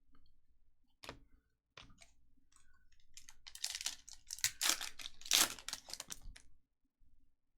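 Foil trading-card pack wrapper being torn open and crinkled, a dense crackling run of a few seconds, after two short sharp clicks.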